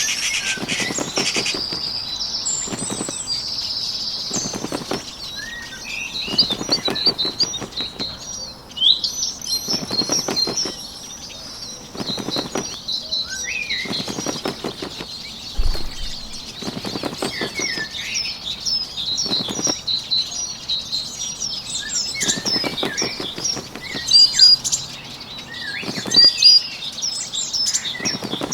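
Small songbirds chirping continually, with short bursts of fluttering wingbeats every few seconds, sound effects for a bird flying on screen.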